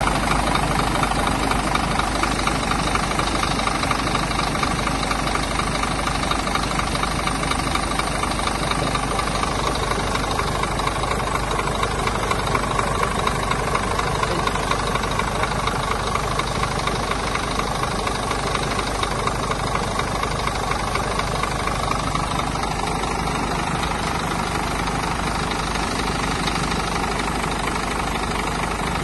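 Scania Omniexpress coach's diesel engine idling steadily, its tone easing slightly about three-quarters of the way through.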